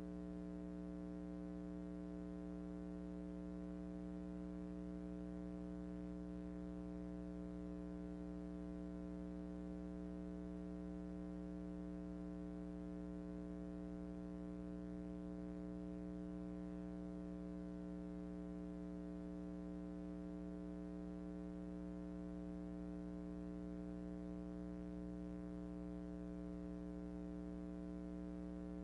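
Steady electrical buzzing hum, unchanging throughout, typical of mains hum on an old recording's soundtrack.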